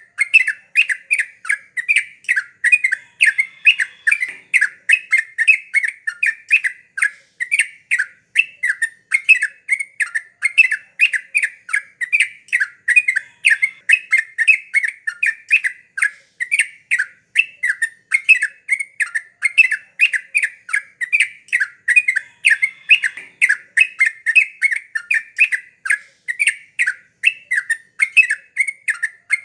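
Yellow-vented bulbul (trucukan) singing a continuous run of short, bubbly chirping notes in quick succession, without a break.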